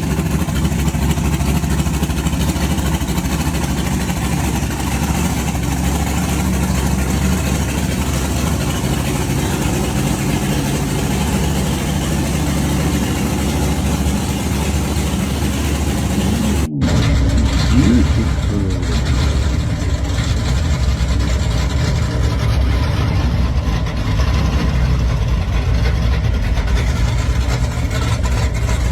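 Loud hot rod engines running and revving on the street, with an abrupt cut to another car about seventeen seconds in and a brief rising rev just after.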